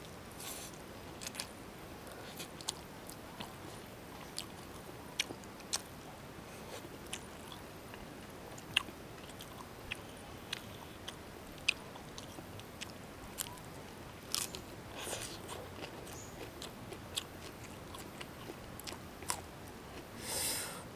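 Close-up eating sounds of a person chewing noodles and biting crisp lettuce leaves: irregular sharp crunches and mouth clicks, a few every couple of seconds, over a quiet background.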